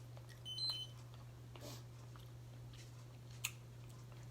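Quiet chewing and eating sounds over a steady low hum, with a short high electronic beep about half a second in and a sharp click a little past the middle.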